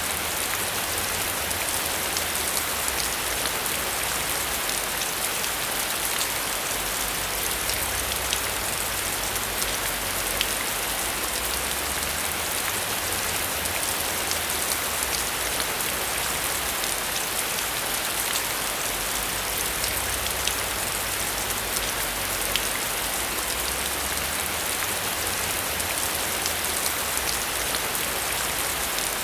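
Heavy rain falling steadily, a dense patter of individual drops over a constant hiss.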